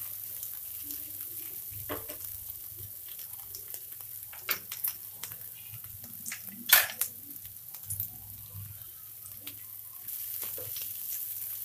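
Mixed vegetables sizzling as they stir-fry in a hot non-stick pan, with scattered sharp clicks and scrapes of a spatula against the pan, the loudest about seven seconds in.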